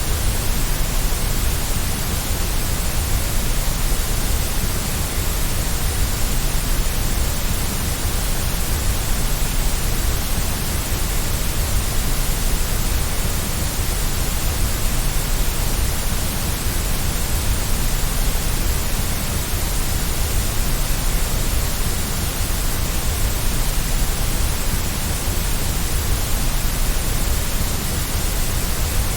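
Steady white noise: an even hiss across the whole range with a strong low rumble underneath, unchanging with no drops, clicks or tones.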